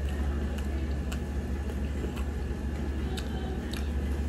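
Mouth sounds of someone chewing a mouthful of chicken biryani: scattered soft clicks and smacks, irregularly spaced, over a steady low hum.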